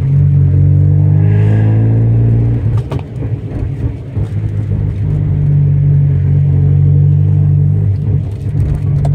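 1991 BMW 318is's M42 four-cylinder engine running at low speed under light throttle, heard from inside the cabin: a steady low drone that eases off about two and a half seconds in, picks up again, and eases once more near the end.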